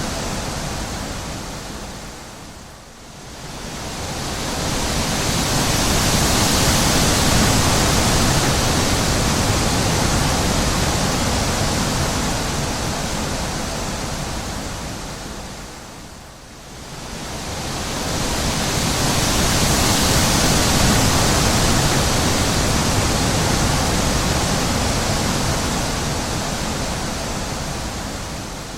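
Wind blowing in long gusts, a full rushing noise that swells and dies away: it drops almost away about three seconds in and again about halfway through, rising back to a peak a few seconds after each lull.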